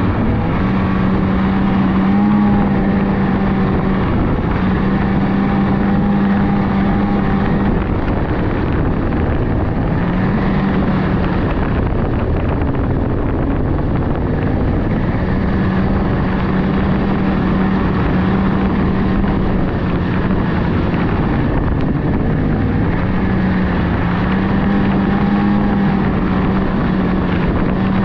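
Polaris 600cc two-stroke snowmobile engine running at a steady cruising throttle along a trail, its pitch holding level with small dips and recoveries.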